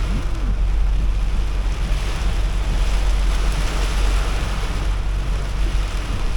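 Heavy rain falling on a pickup truck, a steady even hiss over a constant low rumble of the vehicle's engine and road noise.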